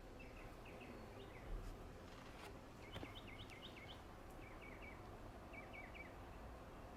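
Faint birdsong: short, quick chirping phrases repeated every second or so, with a soft thump about one and a half seconds in.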